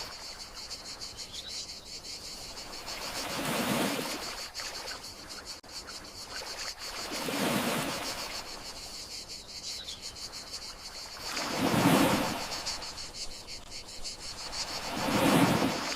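Gentle sea waves washing onto the shore, one soft swell about every four seconds, under a steady chorus of crickets chirping.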